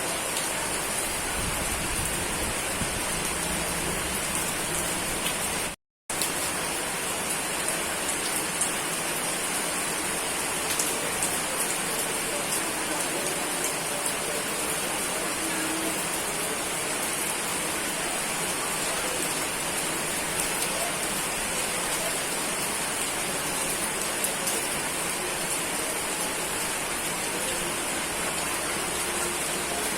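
Steady rain falling, an even hiss of many drops on a surface. The sound cuts out completely for a split second about six seconds in.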